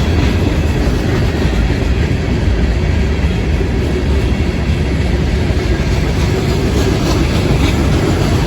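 Florida East Coast Railway freight train passing close by: a loud, steady rumble of steel wheels rolling on the rails.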